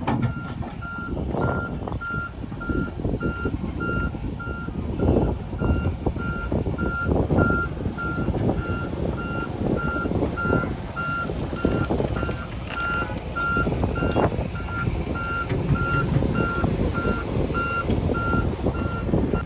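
Reversing alarm on a construction vehicle, beeping steadily about twice a second over a low, uneven rumble of machinery.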